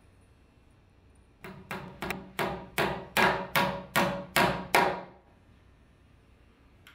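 Hammer driving nails into a hurricane tie: about ten quick strikes at roughly three a second, getting louder over the first few blows.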